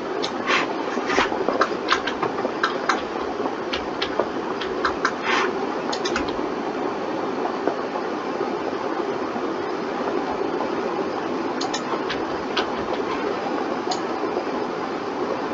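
Computer mouse and keyboard clicking over a steady fan hiss: a quick run of sharp clicks during the first six seconds, then only a few scattered clicks later.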